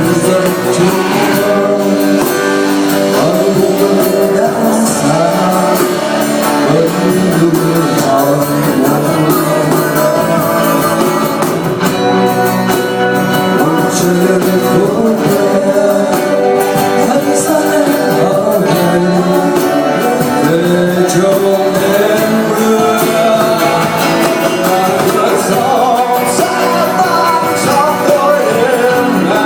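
Rock band playing live, a singer's voice over guitars.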